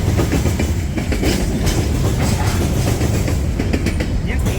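Freight train cars rolling past: a loud, steady rumble with the wheels clicking over the rail joints.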